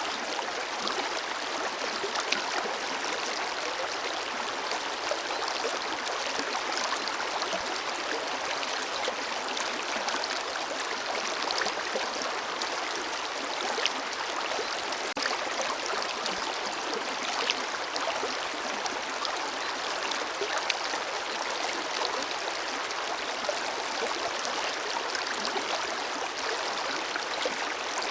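Forest river flowing steadily, a continuous rushing of water with small gurgles and splashes.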